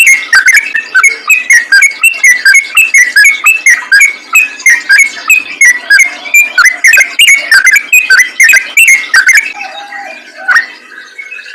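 Yellow-vented bulbul singing a fast, unbroken run of short bubbly whistled notes, several a second, in the rapid 'ropel' style. The run stops about nine and a half seconds in, leaving fainter scattered calls.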